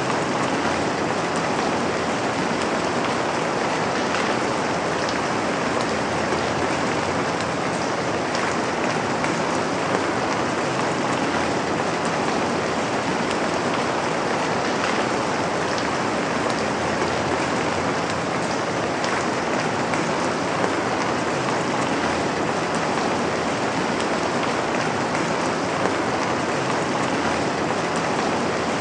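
Steady rain falling, an even, constant hiss with a few faint drop ticks.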